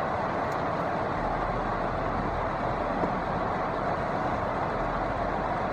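Steady rushing noise inside a parked car, even and unbroken.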